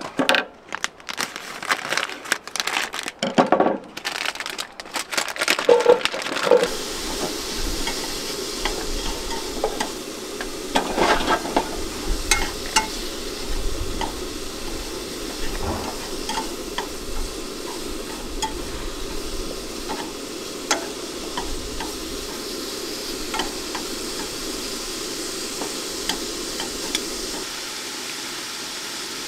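Food frying in a pan: a few seconds of utensil clatter and stirring, then a steady sizzle with small pops and crackles.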